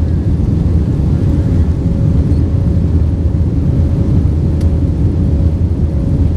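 Airbus A320-232 heard from inside the passenger cabin: its IAE V2500 jet engines and the airflow make a loud, steady low roar, with a faint steady hum over it.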